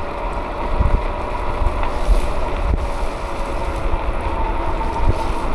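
Wind rushing over the microphone of a moving rider, with a low rumble and a faint steady whine underneath.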